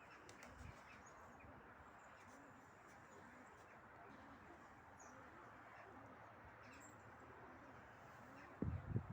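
Faint pigeons cooing, low repeated coos about every half second, over a steady wind noise. A few low thumps near the end.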